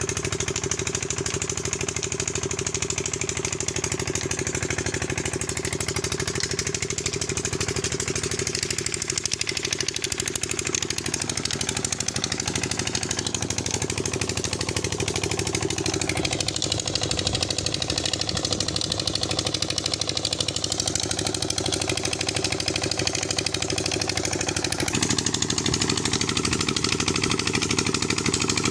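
Diesel engine running the tubewell pump at a steady speed, its note shifting slightly a few seconds before the end.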